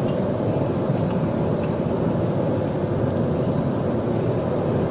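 Police car driving flat out at around 115 mph in a pursuit: a steady rush of engine, tyre and wind noise.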